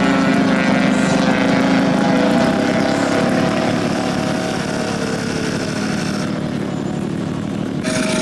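Small gasoline engine of a giant-scale RC model airplane running steadily, with an abrupt change in its sound near the end.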